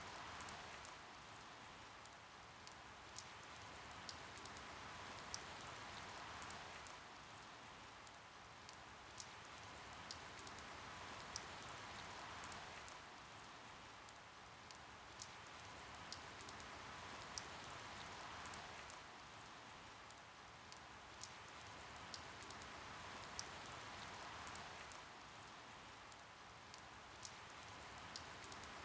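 Steady rain with sharp drops hitting now and then, swelling and easing in slow waves about every six seconds.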